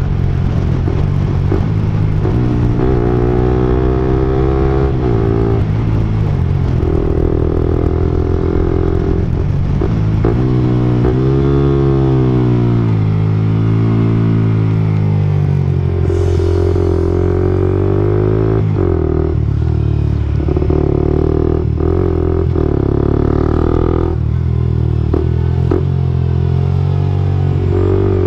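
Suzuki GSX-R125/GSX-S125 single-cylinder four-stroke engine running through an aftermarket Akrapovic-style slip-on exhaust. The engine speed swells and falls several times between steadier stretches.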